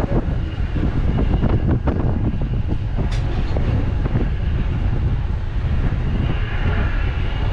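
Passenger ferry under way: a steady low rumble of its engines, with wind on the microphone on the open upper deck.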